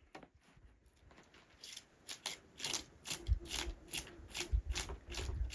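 A run of short, crisp scraping or crunching strokes, about three a second, growing louder toward the end, with a few dull thuds.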